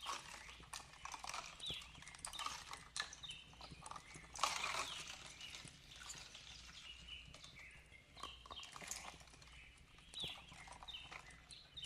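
Fireplace crackling with frequent sharp pops, the loudest a burst about four and a half seconds in, over birds chirping short, quickly repeated falling notes.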